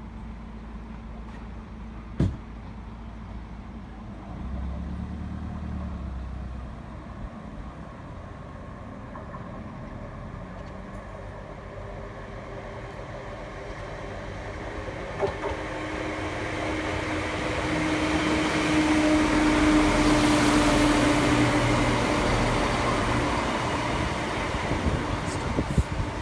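Diesel train approaching and passing through the station: low rumble at first, then engine and wheel noise with a steady hum swelling from about halfway to a peak and slowly easing off. A single sharp knock early on.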